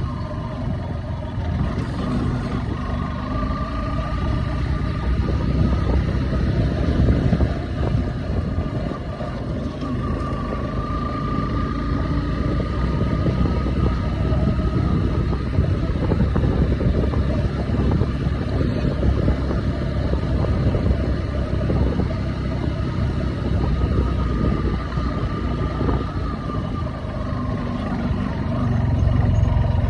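Steady wind rush and running noise of a bike being ridden, with a faint wavering drone; it swells a little near the end.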